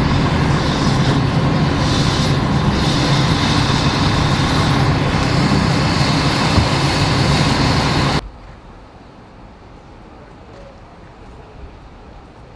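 Loud, steady rumble of a large vehicle or machine with a low hum, which cuts off abruptly about eight seconds in, leaving only faint outdoor background.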